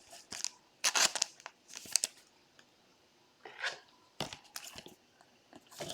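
Trading-card pack wrappers and cards being handled: short bursts of crinkling and tearing in clusters, with a quiet gap of about a second near the middle.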